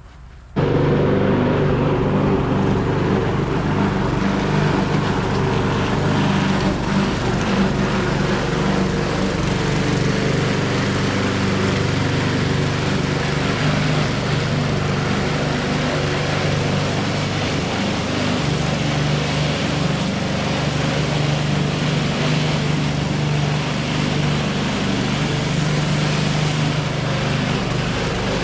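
Gasoline lawn mower engine running steadily, cutting in abruptly about half a second in.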